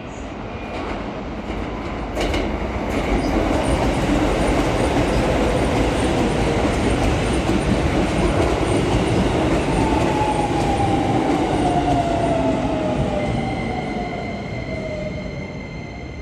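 Keisei 3000 series electric commuter train pulling into a station and braking to a stop. The rumble of wheels on the track swells as the cars come alongside. Then the motor whine falls steadily in pitch as the train slows, and a thin steady tone takes over near the end.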